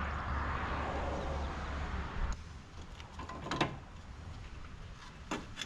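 A steady background rumble and hiss that cuts off about two seconds in, followed by a few light clicks and taps of parts being handled.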